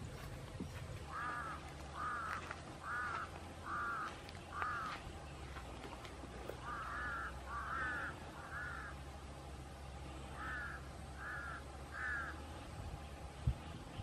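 A bird calling: eleven short, arching calls in three runs of five, three and three, about a second apart, over a steady low hum.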